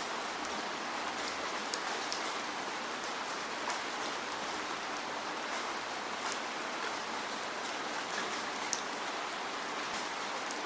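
Steady rainfall, a continuous patter with scattered sharper drops striking a surface.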